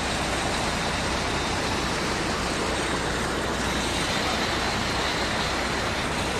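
Rushing floodwater: a steady, unbroken roar of fast-moving water.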